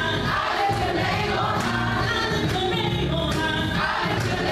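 Gospel worship music: a choir singing over a steady bass and beat.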